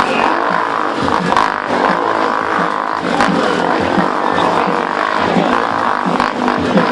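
Motorcycle engines running hard inside a steel globe of death, their pitch rising and falling over and over as the bikes loop around the sphere.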